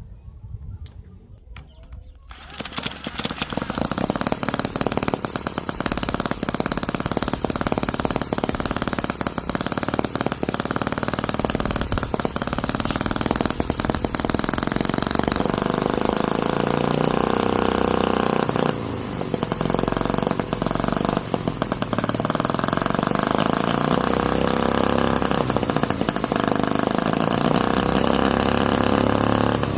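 Miniature H74 5cc two-cylinder four-stroke gasoline model engine starting about two seconds in, then running fast and loud, its pitch rising and falling, with two short dips near the middle.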